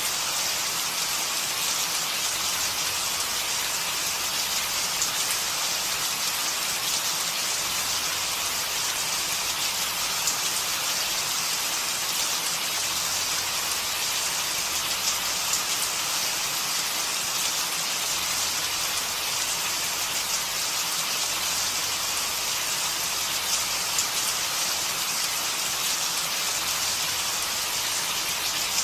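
Steady rain falling, a dense even hiss with fine patter of drops throughout.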